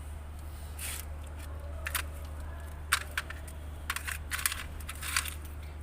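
Hand tools and metal engine parts clinking and scraping as a car engine is taken apart, a run of short sharp clicks, several clustered together near the middle, over a steady low hum.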